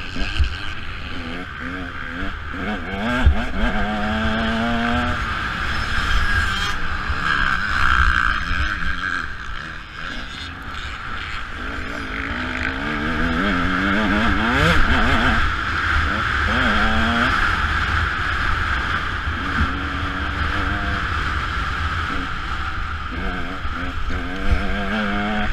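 Motocross dirt bike engine revving hard and easing off again and again, its pitch climbing through the gears, with wind noise and rough low thumps from the track.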